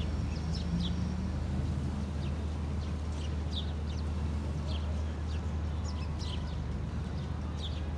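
A small bird giving short, high, falling chirps about every half second to a second, over a steady low hum.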